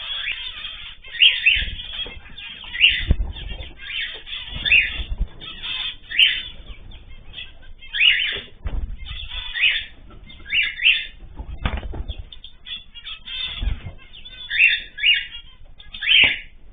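Cage birds calling in short, sharp notes about once a second, with wings flapping in low fluttering thumps now and then.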